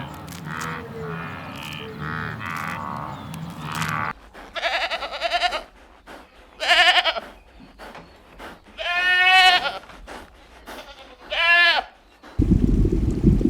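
Goat bleating: four loud, wavering bleats in the second half, each about half a second to a second long. Near the end a steady rushing noise cuts in.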